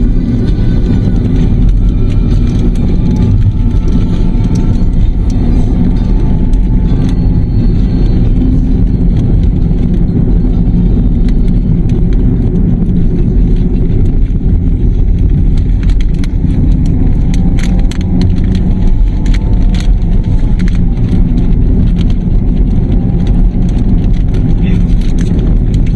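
Steady, loud rumble of a moving road vehicle: engine and road noise, unbroken throughout.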